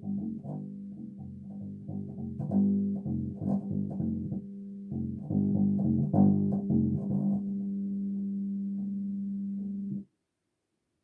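Bass guitar played with quick plucked notes over a held low note. The plucking stops about seven seconds in, and the held note carries on until it cuts off abruptly near the end.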